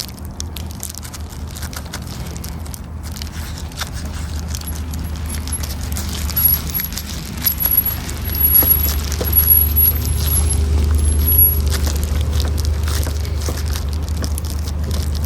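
Wood campfire crackling with many sharp snaps over a steady low rumble, with light metallic clinks of camp cookware.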